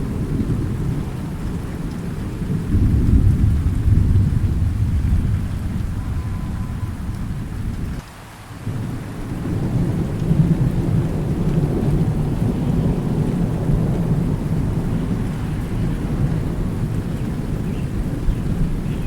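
Thunderstorm: low rolling thunder rumbling over steady rain, swelling about three seconds in. The rumble drops away for about half a second about eight seconds in, then comes back.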